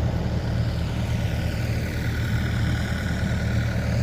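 Diesel engine of a New Holland C232 compact track loader idling steadily, a continuous low drone.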